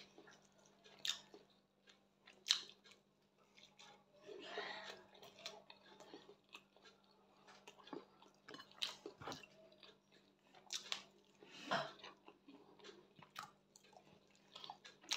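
Close-up chewing and mouth sounds of a person eating scrambled eggs and roasted plantain, in irregular soft smacks and clicks. A faint steady low hum runs underneath.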